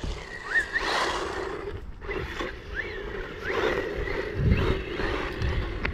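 1/18-scale RC truck's electric motor whining as it is driven, its pitch rising and falling several times with the throttle, over a rough low rumble of the truck running over short grass.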